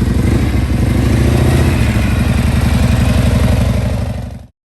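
Motorcycle engine running steadily with an even firing pulse; it cuts off abruptly about four and a half seconds in.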